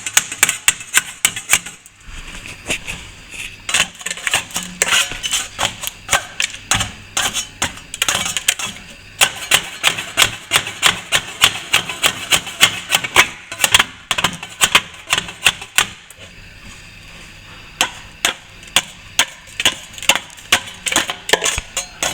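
A hand tool scraping and chipping loose plaster and old joint tape off a cracked ceiling-to-wall join, in rapid sharp strokes of about three or four a second, with short pauses near the start and about three quarters of the way through.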